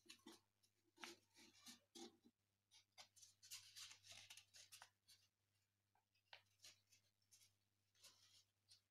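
Faint rustling and crinkling of a sheet of paper being opened, folded and creased by hand, in short irregular scratches.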